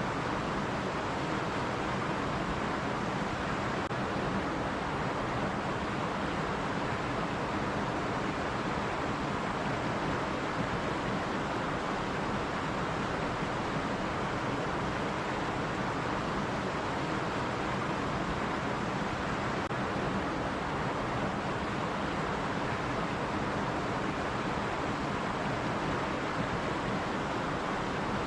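Stream water running steadily over rocks, an even rushing hiss with no changes.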